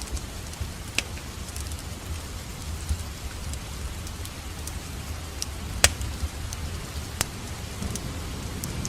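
Wood fire burning in a fireplace: a steady low rumble of flames with scattered crackles and a few sharp pops, the loudest about six seconds in.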